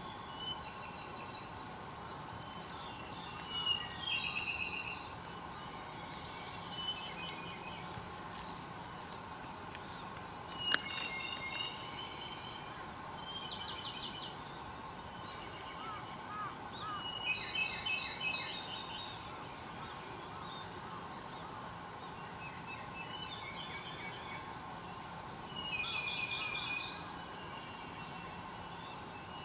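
Wild songbirds singing short, warbled phrases every few seconds, over a faint steady hum and outdoor background noise.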